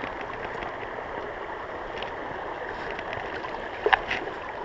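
Mountain creek water rushing steadily. A short, sharp sound stands out near the end, the loudest moment.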